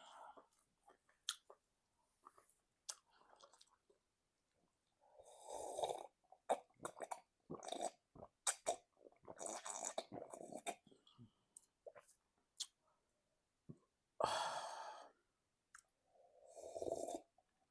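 Close-miked eating sounds: wet chewing and mouth clicks from eating egusi soup with semolina by hand. A few louder rushes of noise, each about a second long, come in about five seconds in, around nine seconds, near fourteen seconds and near the end.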